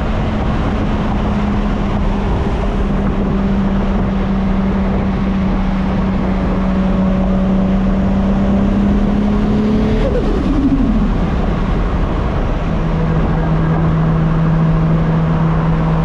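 Turbocharged 2JZ inline-six of a Mk4 Toyota Supra pulling at a steady engine note that climbs slowly, with road noise beneath. About ten seconds in the revs fall quickly, and the engine then holds a lower steady note.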